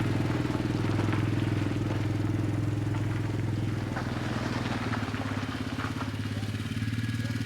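A vehicle engine idling steadily: an even low drone with fine rapid firing pulses, slightly quieter for a couple of seconds in the middle.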